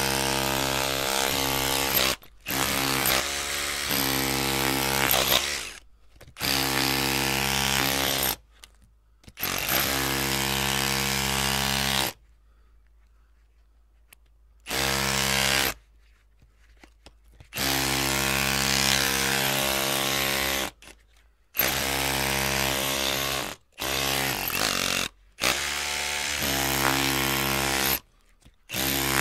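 Electric drill running in repeated bursts of one to three seconds, switched on and off with short pauses between them: a steady motor hum under the hiss of the bit. The longest pause comes a little before the middle.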